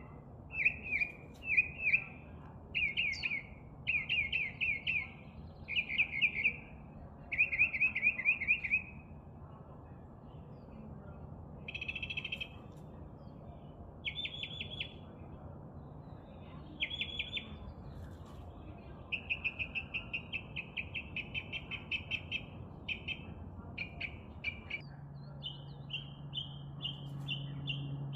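Songbird chirping in repeated short phrases, each a quick run of sharp notes; the phrases are loudest at first, then come quieter and more spaced out, with a higher-pitched series near the end. A faint low hum starts near the end.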